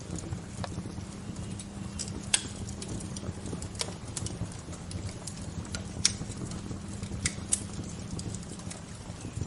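Wood fire crackling: irregular sharp pops and snaps, a few louder ones scattered through, over a steady low rumble.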